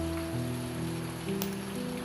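Slow, soft music of held low notes changing one after another, over a steady patter of rain.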